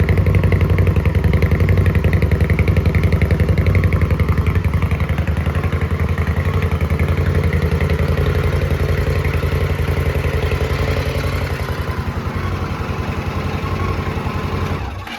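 2017 Indian Scout's V-twin idling through its original mufflers, whose rear baffle has been drilled out, with a steady pulsing exhaust beat. The engine is switched off and cuts out right at the end.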